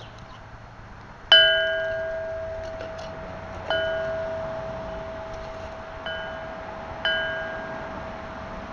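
Metal chime struck four times at irregular intervals, each note the same pitch and ringing out slowly. The first strike is the loudest.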